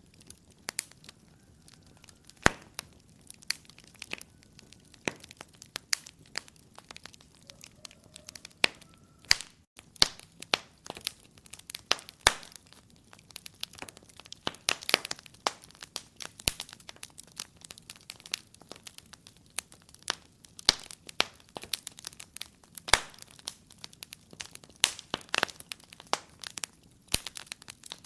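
Wood fire crackling in a fireplace: irregular sharp pops and snaps over a faint hiss, sparse at first and busier after about ten seconds.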